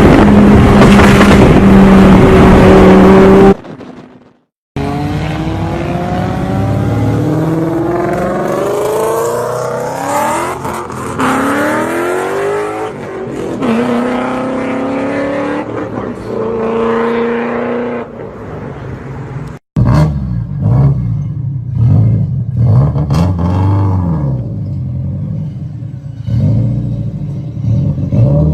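Performance car engines and exhausts at high revs: a loud steady high-rpm note, then after a short cut, rising pitch sweeps one after another as a car accelerates hard through the gears. After a second cut, an engine is revved up and down.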